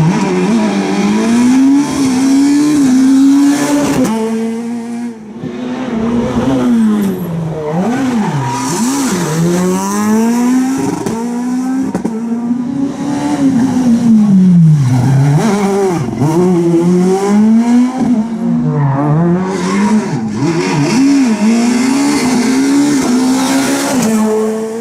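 Rally car engine revving hard on a special stage, its pitch climbing and dropping over and over through gear changes and braking, with brief steady stretches between.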